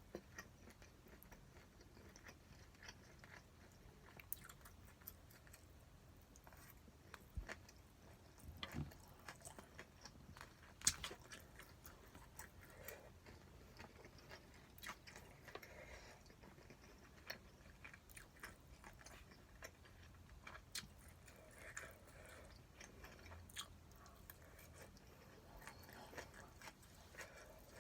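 Faint chewing and biting of spicy stir-fried pork (jeyuk-bokkeum), with scattered small clicks and one sharper click about 11 seconds in.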